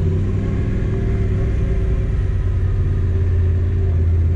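Motorcycle engine running steadily as the bike rides off.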